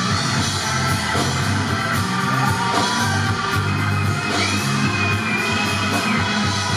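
Anatolian rock band playing live, with drums, bass and guitars keeping a steady beat. A note glides upward a little over two seconds in, and a long high note is held from about four to six seconds in.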